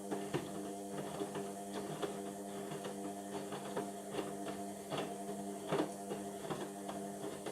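Indesit washing machine running a cotton wash, its drum motor humming steadily with irregular light clicks and knocks from the turning drum and load.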